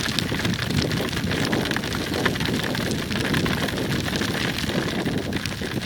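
Heavy rain and wind rushing over a helmet-mounted camera microphone on a moving motorcycle, a steady noisy rush with many small raindrop ticks on the helmet.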